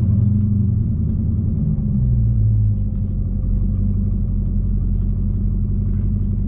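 Dodge Challenger Hellcat's supercharged V8 running at low revs, a deep steady drone heard inside the cabin, with small rises in pitch about a quarter-second in and again about two seconds in.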